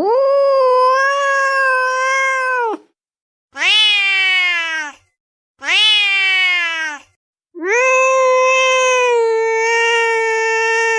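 A cat crying in loud, drawn-out meows: four cries with silence between them. The first and last are long and held level in pitch, and the two in the middle are shorter and fall in pitch.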